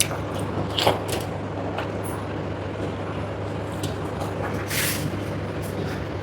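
Mukbang eating sounds: chewing with a few short crunches and clicks, the loudest about a second in and near the end, over a steady low hum.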